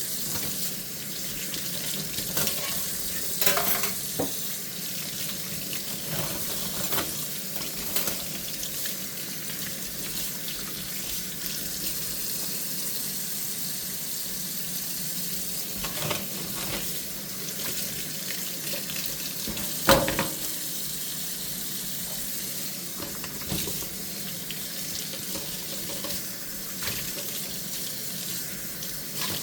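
Tap water running steadily into a kitchen sink during hand dishwashing, with a few sharp clinks and knocks of dishes scattered through; the loudest knock comes about two-thirds of the way in.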